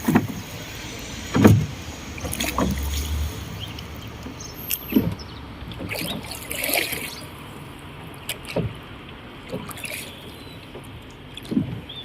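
Oars working a small rowboat: irregular knocks and swishes of the oars, a second or more apart, over faint water noise.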